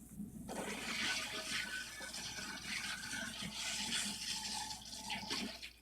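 A cartoon sound effect of rushing air or gas: a steady, even hiss with a low rumble underneath, starting about half a second in and dying away near the end.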